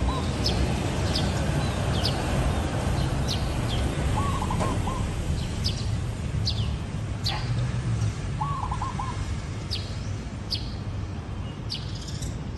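Zebra dove cooing in short warbling phrases, twice about four seconds apart. Sharp high chirps from other small birds and a steady low background rumble run through it.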